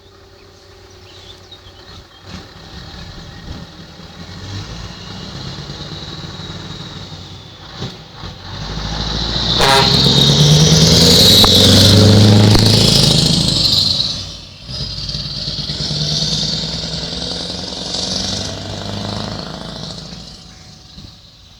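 Scania R500 V8 truck engine pulling away under load and driving past, building up to loudest in the middle. It drops sharply for a moment, pulls again, then fades into the distance.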